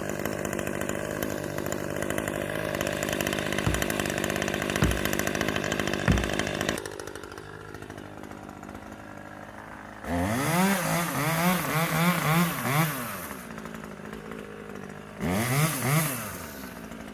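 Chainsaw running steadily at high speed with three dull thuds about a second apart, then dropping back to idle and being revved up and down in quick blips, twice over.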